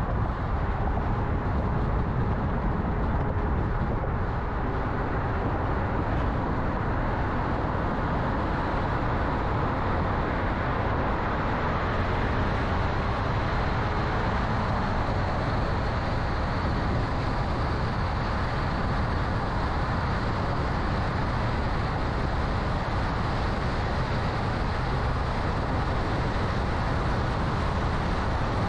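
Car driving along the road: a steady rush of tyre and road noise with engine hum.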